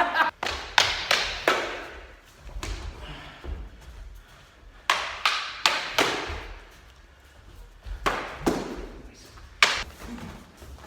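Strikes landing on a heavy bag: sharp thuds in quick bursts of two to four, with pauses between the combinations.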